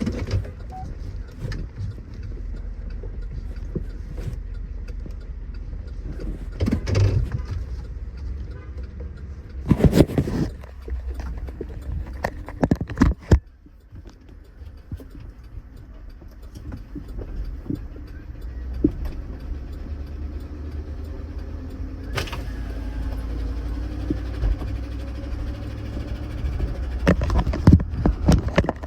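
GMC Yukon XL's 5.3-litre V8 running under way with a steady low rumble; the engine has a bad rod knock. A few loud, sharp thumps stand out, about 10 and 13 seconds in and again near the end.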